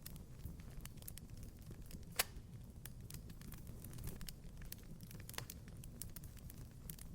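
Wood fire in a fireplace crackling: a steady low rumble of burning with frequent small snaps, and one louder pop about two seconds in.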